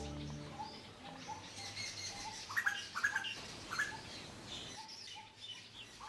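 A coppersmith barbet calling its repeated low 'tuk' note, about two a second, with higher bird chirps about two to four seconds in. Background music fades out in the first half-second.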